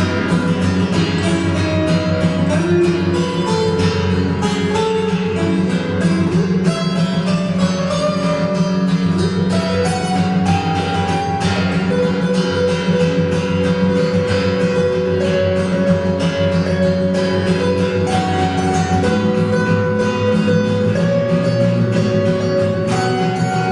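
Guitar music: a strummed rhythm under a picked melody line of held notes.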